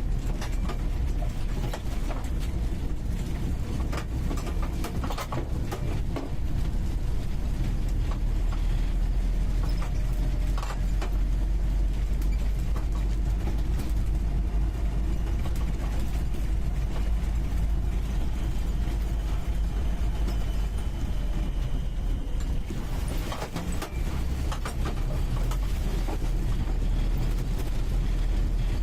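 UAZ 469B's four-cylinder petrol engine running under way, heard from inside the cabin, with a steady low drone and scattered knocks and rattles from the body over rough ground.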